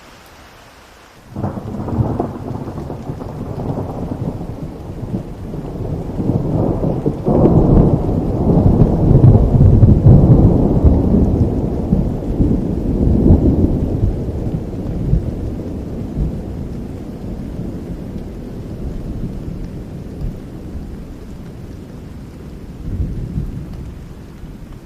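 Thunder over steady rain: a clap breaks about a second in and rolls on as a long low rumble, loudest a few seconds later and slowly dying away, with a smaller rumble near the end.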